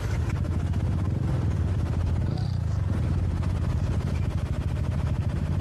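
Motorcycle engine running steadily with an even low pulse, holding a constant pace rather than revving up.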